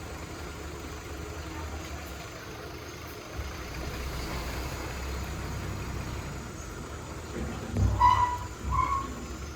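Heavy diesel earthmoving machinery engine running steadily, with a vehicle's reversing alarm beeping twice near the end.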